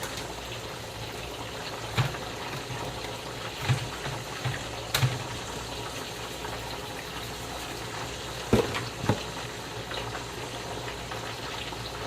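Steady hiss and bubbling of stovetop cooking: chicken pieces frying in a skillet of oil alongside a pot of boiling water. A few light knocks and taps of kitchen handling come through it.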